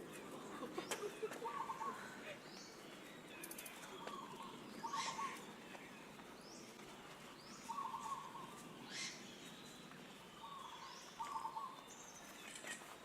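Outdoor birdsong: one bird gives short low calls in little groups every few seconds, while other birds add higher chirps, over a steady background hiss.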